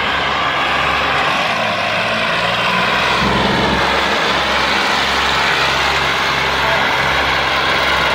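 Tractor engine running hard, its pitch shifting up and down a few times.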